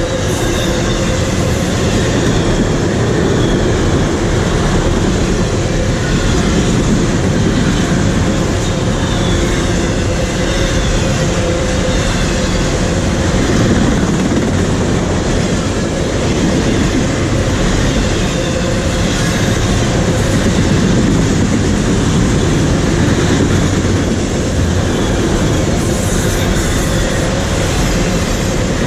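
Train passing at close range: a loud, steady rumble and clatter of wheels on the rails.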